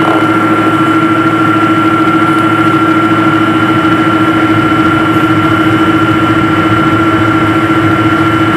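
Steady hum of an airliner's jet engines and rushing air heard inside the passenger cabin, with a few steady whining tones over it.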